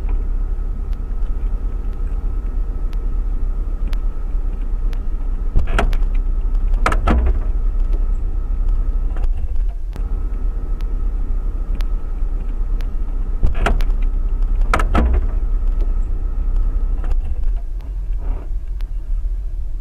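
Dashcam sound inside a moving car: a steady low rumble of engine and road noise. Two pairs of sharp knocks, each pair about a second and a half apart, come about a third of the way in and again past the middle.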